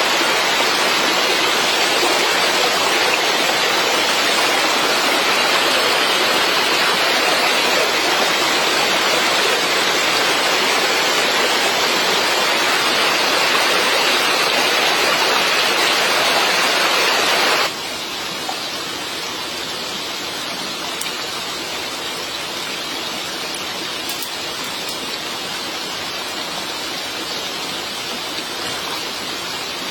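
Steady rushing hiss of water, falling or flowing. It drops suddenly about two-thirds of the way through to a softer, duller wash.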